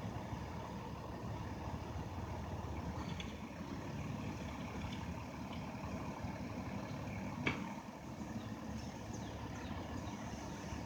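Rear-loader garbage truck's engine running steadily at a low rumble, with one sharp knock about seven and a half seconds in.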